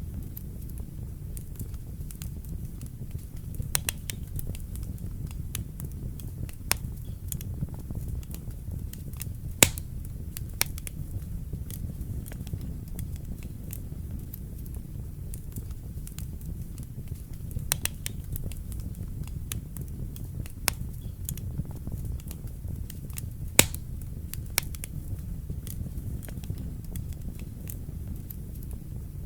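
Wood fire crackling in a fireplace: a steady low rumble of flames with scattered sharp pops and snaps, the two loudest about ten seconds in and near twenty-four seconds in.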